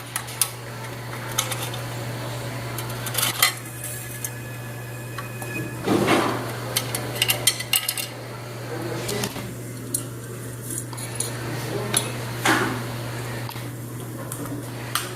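Irregular metallic clinks and clanks of tools and metal parts being handled, over a steady low hum.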